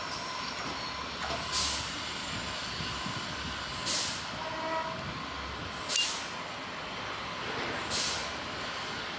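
Ferrocarril Urquiza electric train rolling slowly past and away with a steady rumble, while its air brakes let out short sharp hisses about every two seconds as it slows for the station. A faint wheel squeal comes in briefly near the middle.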